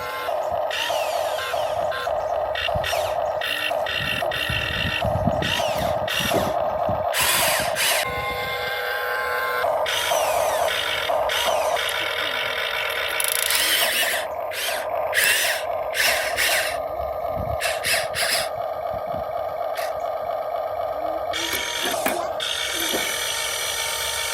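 Huina 1592 RC model excavator's motors and gearboxes whining in short stop-start pulses as it is worked, with bursts of scraping and rattling.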